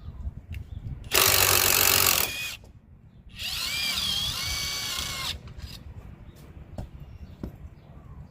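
A handheld power tool run in two bursts: one loud burst of about a second and a half, then after a short pause a second burst of about two seconds whose pitch wavers as the motor speed changes. Faint clicks and knocks come before and after.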